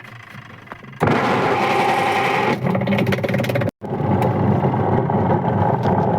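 A washing machine's motor and gearbox running steadily, starting abruptly about a second in and cutting out for an instant near the middle before running on.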